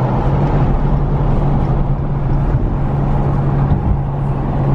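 A car driving at highway speed, heard from inside: a steady engine drone under a constant rush of tyre and wind noise.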